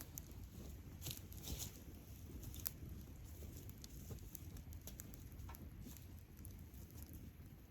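Wood campfire crackling: scattered sharp snaps and pops over a low steady rumble, with a brief cluster of louder snaps between one and three seconds in.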